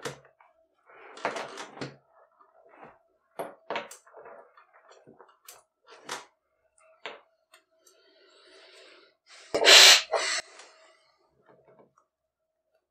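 Handling sounds as leather offcuts are picked up and laid on a sheepskin coat on a wooden table: a series of short soft knocks and rustles, with a louder burst of rustling about ten seconds in.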